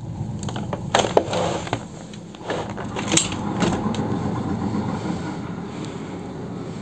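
Low steady rumble of a moving vehicle, with a few sharp clicks and knocks in the first half.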